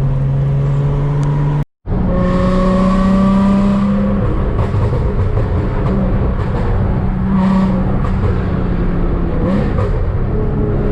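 Car engine running at a steady pitch, with a short break to silence about two seconds in; after it the hum sits a little higher and wavers slightly.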